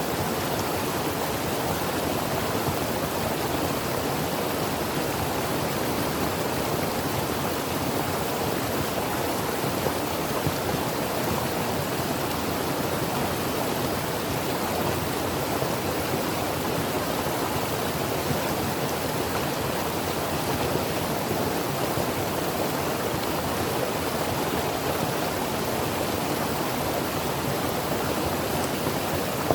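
Creek water running over rocks: a steady, even rushing with no pauses.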